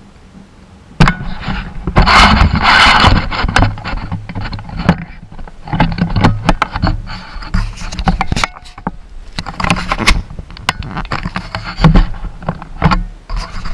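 Irregular knocking, clicking and scraping of hard objects, starting suddenly about a second in and going on in loud bursts with short gaps.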